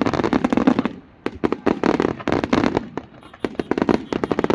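Fireworks going off in rapid crackling volleys: dense clusters of sharp pops and bangs, with a short lull about three seconds in before more scattered pops.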